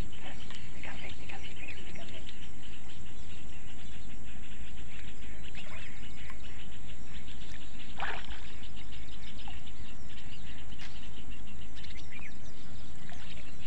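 Birds chirping over a steady low rumbling noise, with one louder call about eight seconds in.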